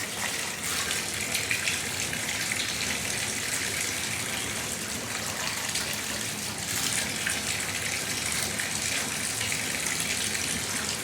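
Water running steadily from a single-handle shower valve turned to full hot, just after its cartridge was replaced.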